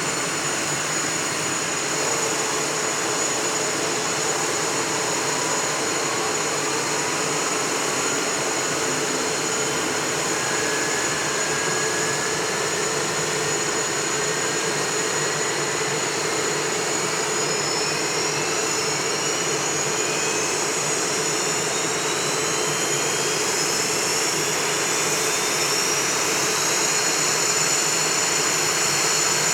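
Northrop F-5E Tiger II's General Electric J85 turbojets whining during start-up: a steady high whine runs throughout while a second whine rises steadily in pitch over about twenty seconds and levels off at the same pitch near the end, as an engine spools up to idle.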